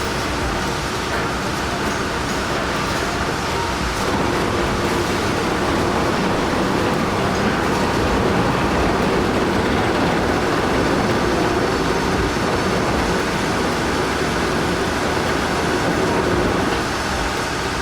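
Steady, continuous mechanical noise of a large vehicle or heavy machine running, growing a little louder about four seconds in.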